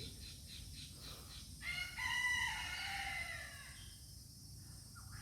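A bird calling: a quick run of short, high notes, then one long drawn-out call of about two seconds that falls slightly in pitch near its end.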